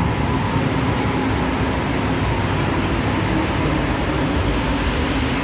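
A red DB S-Bahn electric train running in along an underground station platform. Its wheels make a steady rolling rumble, with a steady hum from the train under it.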